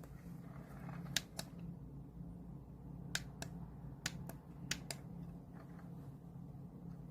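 Sharp clicks, mostly in quick pairs, four times, from album packaging being handled, over a steady low hum.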